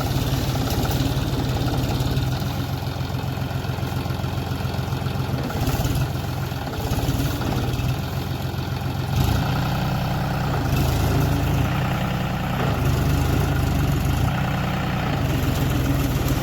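John Deere tractor's diesel engine running steadily under load while working a trolley loaded with wood, with a few short knocks.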